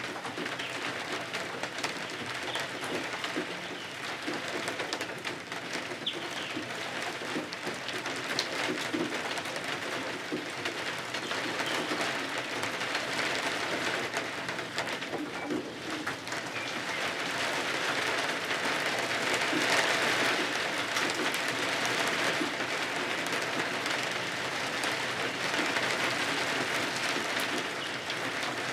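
Steady rain falling and pattering on windows and the roof, a dense even patter that grows a little louder about two-thirds of the way through.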